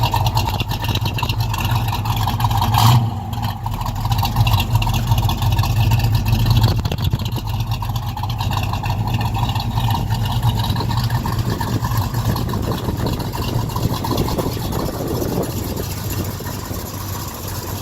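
1966 Chevy Nova's engine idling steadily through a custom exhaust, with one brief louder moment about three seconds in.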